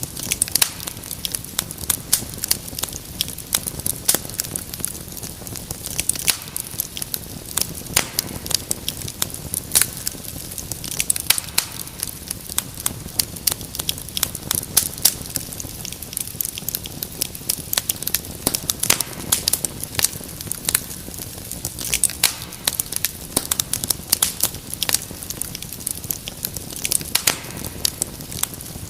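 Wood fire crackling in a fireplace: dense, irregular sharp pops and snaps over a steady low rush of flame.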